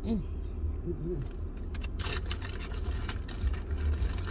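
Low, steady rumble of a car engine idling, heard from inside the cabin, with two short closed-mouth hums from the eater near the start and a brief rustle about two seconds in.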